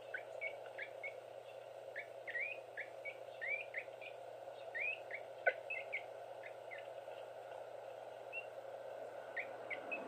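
Small birds chirping: many short, rising chirps coming irregularly, thickest in the first half and sparser later, over a steady background hum. One sharp click about halfway through.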